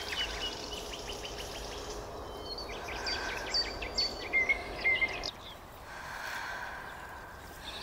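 Several birds singing over a steady outdoor hiss, with short whistled chirps and quick trills. The background hiss drops a little about five seconds in.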